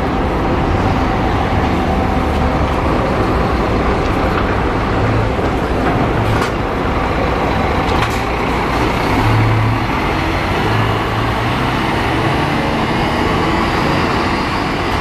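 Scania-chassis Neobus New Road N10 coach running: a steady low engine drone under road and mechanical noise, with two brief clicks or knocks partway through.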